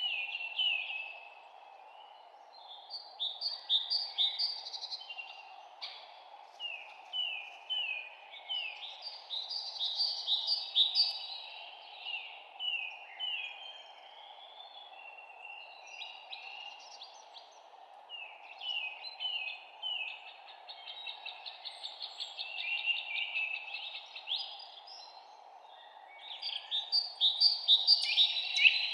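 Songbirds chirping and singing in quick, repeated trilled phrases, one after another, with a louder flurry near the end, over a steady background hiss.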